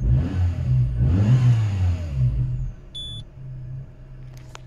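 Peugeot 308's 1.6 petrol engine, just started, revs rise and fall once, then settle back to a steadier, quieter idle. A short electronic warning beep sounds about three seconds in, with the engine warning light already on.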